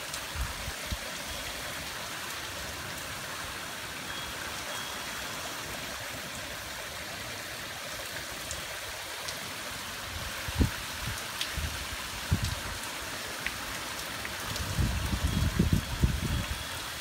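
Steady rain falling, an even hiss. A few low rumbling bumps come in during the second half, bunched and loudest near the end.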